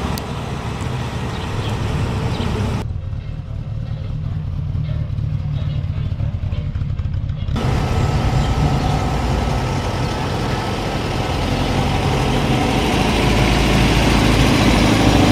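A car engine running at low speed, getting louder toward the end, with people's voices in the background.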